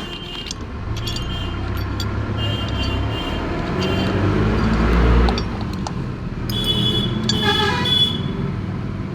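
Motor vehicle engine noise swells to its loudest about five seconds in, like a vehicle passing by, and a horn sounds briefly about seven to eight seconds in.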